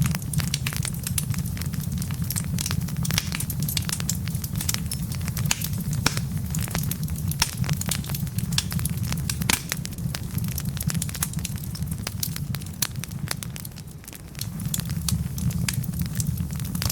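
Wood fire of burning logs crackling, with frequent sharp pops and snaps over a steady low rumble; the rumble drops away briefly about thirteen seconds in.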